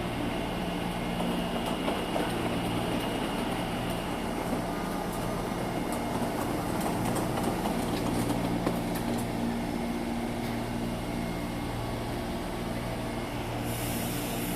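Taipei Metro C321 electric train refitted with variable-frequency (VVVF) drive: a steady electrical hum of several low tones over a dense rumble, with a hiss coming in near the end.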